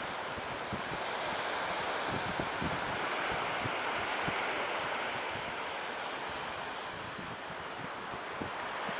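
Surf washing on a beach, a steady rush of waves, with wind buffeting the microphone in irregular low gusts.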